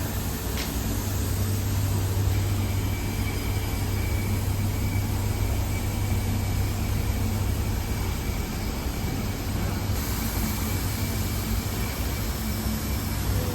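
Steady low hum and rush of a 2019 Infiniti Q50 3.0t heard from inside its cabin, with a single click about half a second in.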